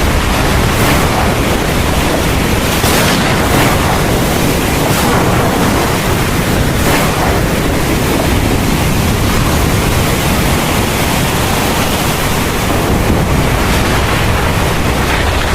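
Heavy thunderstorm rain pouring steadily, a dense even hiss with a deep rumble underneath and a few brief surges in the hiss.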